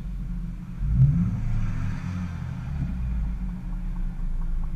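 Mini Cooper S four-cylinder engine running at a standstill, a steady low rumble heard inside the cabin, swelling briefly from about a second in.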